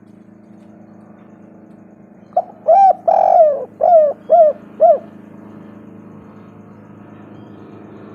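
Spotted dove cooing: one phrase of six coos starting a little over two seconds in. A short note and two longer ones come first, then three short, quick notes, over a faint steady hum.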